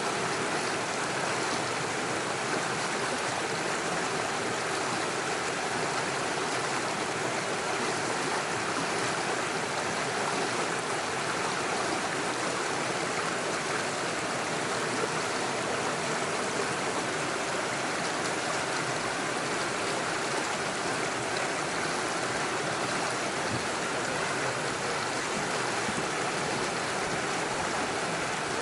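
Small rocky forest stream running over stones and little waterfalls: a steady, even rush of water.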